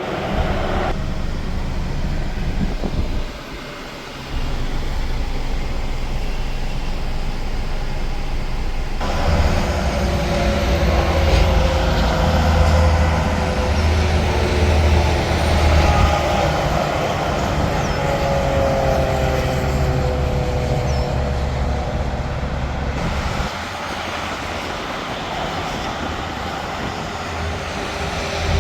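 Highway traffic with semi trucks passing: a low engine drone and tyre noise, loudest in the middle stretch, with the sound changing abruptly a few times.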